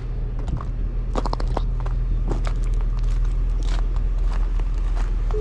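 Steady low rumble of a car engine running, heard from inside the cabin, with scattered clicks and knocks of handling and movement.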